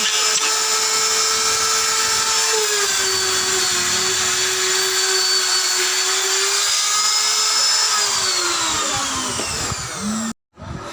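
Electric power tool motor running with a steady whine, then switched off and spinning down, its pitch falling over about two seconds near the end. The sound cuts out abruptly just after.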